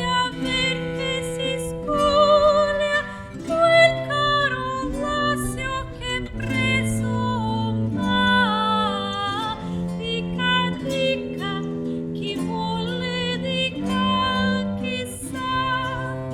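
Live acoustic performance of late-Renaissance or early-Baroque Italian music: a melody line with vibrato over plucked strings and a sustained bass line that changes note every second or two.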